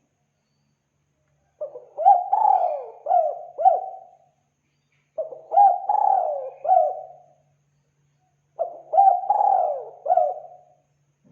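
Spotted dove (tekukur) cooing: three phrases of several coos each, a little over a second apart.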